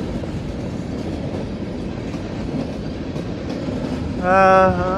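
Freight train cars rolling past close by, a steady noise of wheels on the rails.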